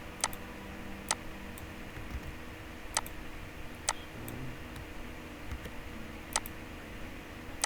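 Computer mouse clicking, about six sharp clicks at uneven intervals, over a steady low electrical hum.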